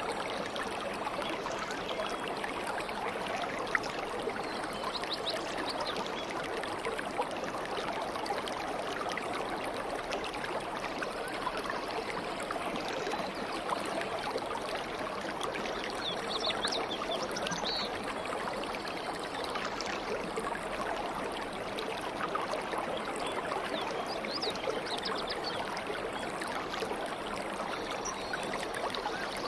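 A stream running steadily over stones, with faint short high bird chirps now and then.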